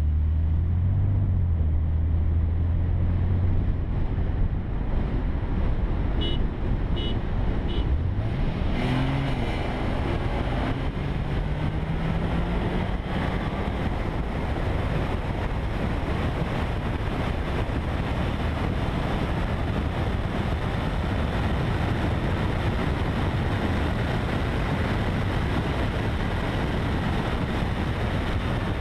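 Car engine droning steadily, then revving hard under full acceleration about eight seconds in, its pitch rising, dropping at a shift and rising again, before steady wind and road noise at high speed takes over. Three short high beeps sound just before the acceleration.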